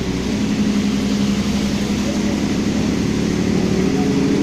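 Car engine running at low revs, heard from inside the cabin as the car creeps through shallow floodwater, its pitch edging slightly up near the end, with a steady hiss behind it.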